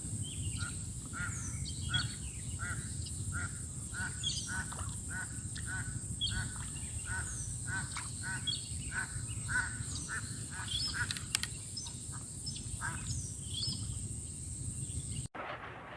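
Birds calling in a rice field: short calls repeated about twice a second, mixed with higher falling notes, over a steady high insect drone. The sound cuts off abruptly near the end.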